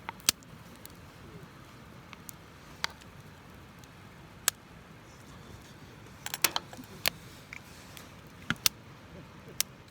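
Wood fire crackling: sharp, irregular pops, a small cluster of them a little past halfway, over a low steady rumble.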